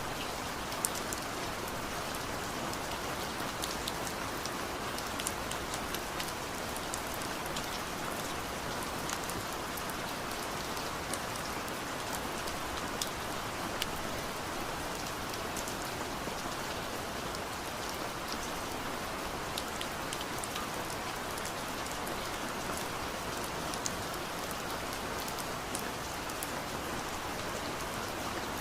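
Steady rain falling on a surface, a continuous hiss with many scattered sharp drop ticks.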